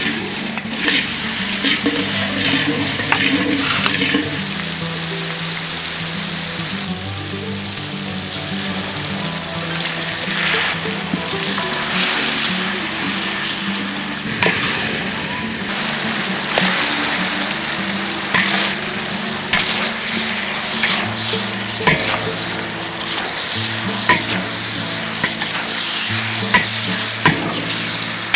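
Pork intestines sizzling as they are stir-fried in a hot pan, with the spatula clacking and scraping against the pan now and then, more often near the end.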